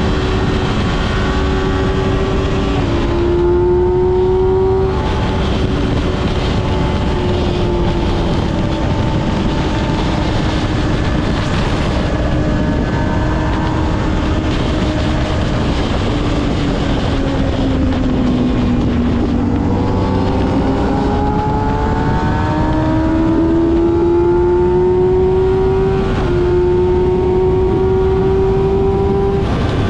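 Kawasaki ZX-6R's inline-four engine under way, its pitch climbing slowly through each gear with a sharp drop at an upshift about three seconds in and another near the end. About two-thirds through the revs sag and then climb steadily again, all over a constant rush of wind noise.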